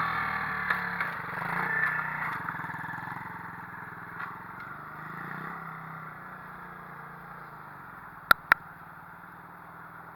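Pit bike engine running, fading gradually as it moves away. Two sharp clicks close together near the end.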